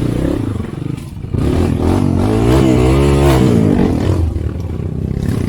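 Motorcycle engine running, revved from about a second and a half in to about four seconds, its pitch rising and falling with the throttle.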